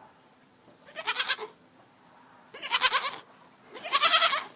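Goat bleating three times, each call a short quavering bleat about a second apart.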